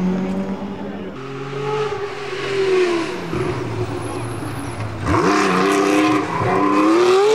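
Rally car engines at full load on a stage, revving up and dropping through gear changes, with the sound changing abruptly about a second in and again about five seconds in as one car gives way to another.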